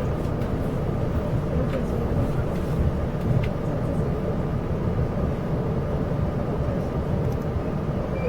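Steady low rumble of a Chu-Kuang Express passenger carriage running along the line, heard from inside: wheels on rail and carriage running noise, with a few faint clicks.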